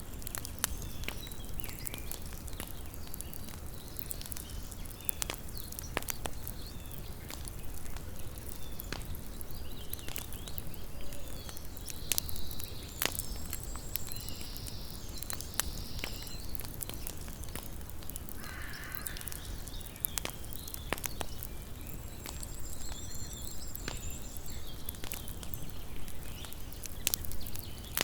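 Campfire burning, its wood crackling with irregular sharp pops over a low steady rumble.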